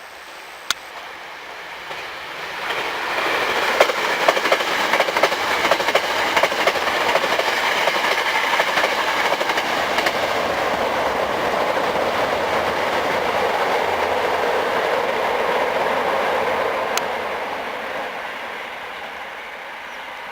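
Hankyu 9300 series eight-car limited express train passing through a station at speed without stopping. The noise swells about two seconds in, wheels click rhythmically over rail joints as the cars go by, and the sound fades away near the end.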